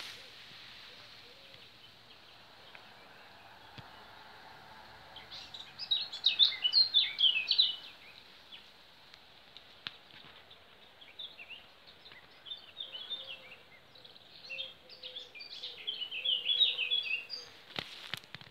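A songbird singing outdoors: a quick run of high chirping notes about five seconds in, then a longer spell of twittering from about eleven to seventeen seconds, over a steady background hiss. A few faint knocks near the end.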